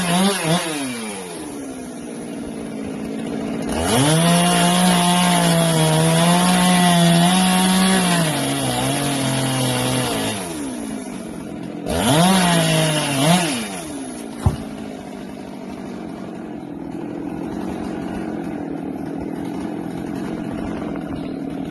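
Husqvarna 390 XP two-stroke chainsaw revved to full throttle in three bursts, the longest about six seconds, falling back to idle between them. It idles steadily through the last several seconds, with one sharp click about fourteen seconds in.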